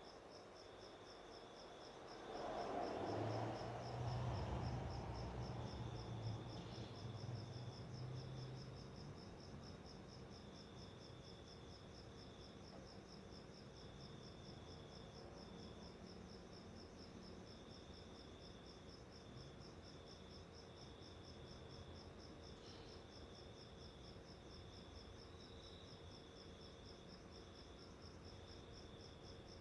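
Faint, steady insect trill of rapid even pulses, with a second higher chirping that comes and goes. A low rumble swells about two seconds in and fades away by about nine seconds.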